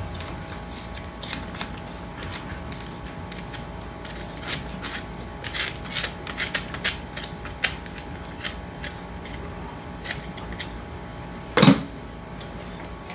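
Metal parts and hand tools clicking and clinking during hydraulic pump disassembly: scattered sharp taps with pauses between, over a steady faint hum. A short loud sound comes near the end.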